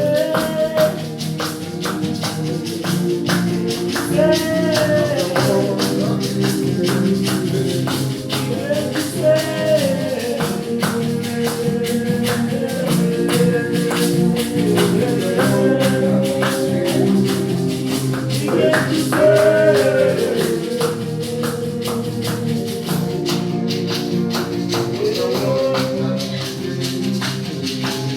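Gospel worship music: a steady tambourine beat over sustained chords, with singing voices rising and falling above them.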